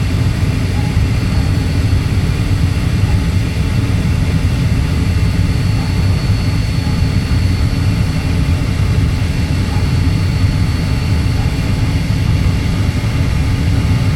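Gas furnace running with its burners lit and the draft inducer (booster) fan on, a steady low rumble throughout. The furnace is firing on a newly fitted gas valve while its outlet pressure is being set to about 3.5 inches of water column for natural gas.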